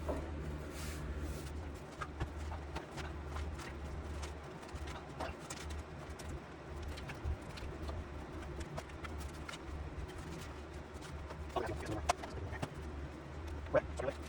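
Shovel digging into dirt: scattered scrapes and knocks over a steady low hum, with a few sharper strikes near the end.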